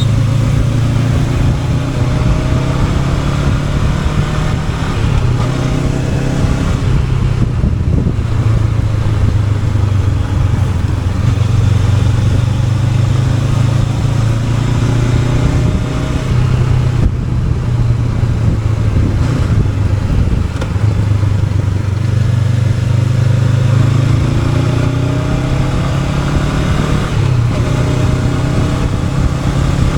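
Honda NX500's parallel-twin engine running under way, with wind rushing past. The engine note rises and falls with the throttle.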